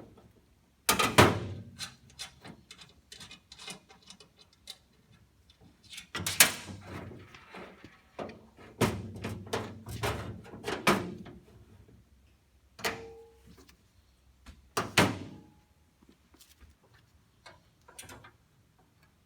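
Irregular metal clanks and knocks of steel parts being handled and set down on a shop bench, one or two of them ringing briefly.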